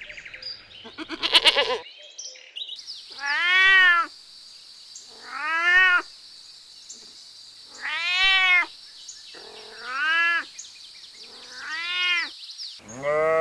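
White kitten meowing five times, about two seconds apart, each meow rising then falling in pitch, over a steady high hiss.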